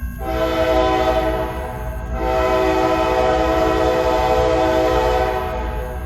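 Freight locomotive air horn sounding two blasts, a shorter one and then a longer one of about three seconds, over the low rumble of the passing train.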